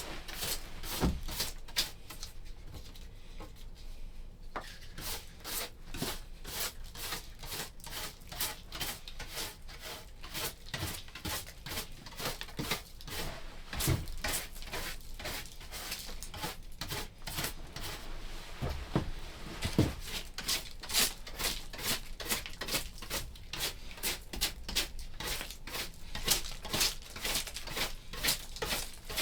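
A rapid series of short scraping and rubbing strokes, several a second, with a brief lull a few seconds in.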